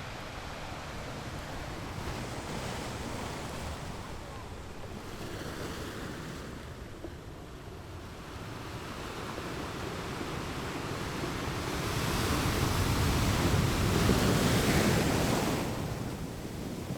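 Ocean waves breaking on rocks, a rushing wash that swells and eases, with the biggest surge loudest in the second half.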